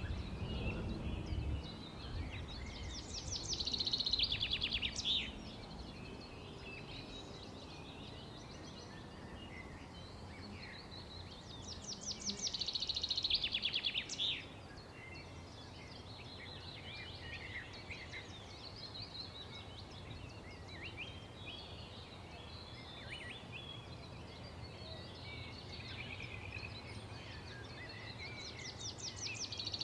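Wild birds singing and calling. Three times a loud, fast trill of high, rapidly repeated notes lasting about two seconds stands out over scattered softer chirps, with a faint low background rumble.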